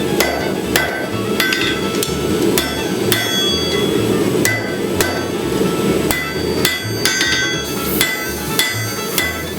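Hand hammer striking hot lawnmower-blade steel on an anvil while forging a paring knife, about two ringing metallic blows a second, irregularly spaced. Under the blows runs a steady low rushing noise from the running forge.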